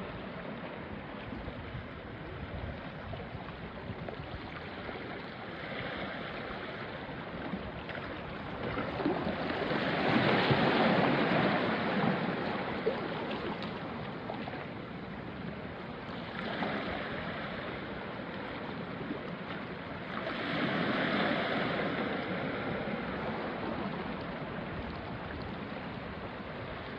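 Small sea waves washing onto a rocky shore: a steady wash of water, with one loud surge of a breaking wave about a third of the way in and two smaller surges later.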